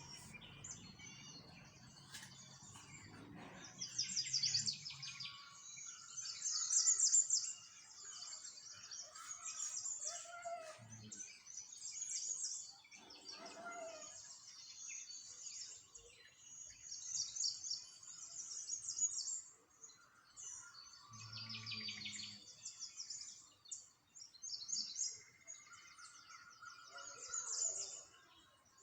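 Small songbirds chirping and trilling, several at once, in repeated bouts of rapid high trills.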